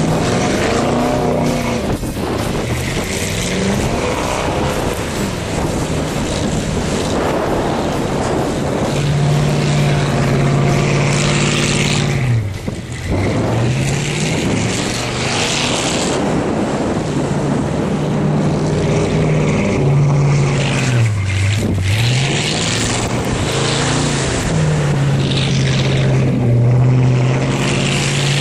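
A 2000 Ford Explorer's 5.0-litre V8 engine pulls the vehicle along. Its revs rise and fall repeatedly, dipping low twice before climbing back, over a steady rush of road noise.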